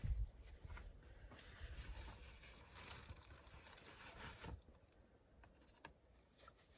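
Faint rustling and handling noise, with a low thump at the start. It goes quieter after about four and a half seconds, leaving a few soft clicks.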